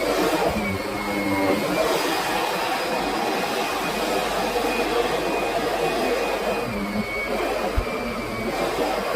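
Kirby Sentria upright vacuum cleaner running steadily, with a high motor whine over the rush of its fan. There is a single sharp knock near the end.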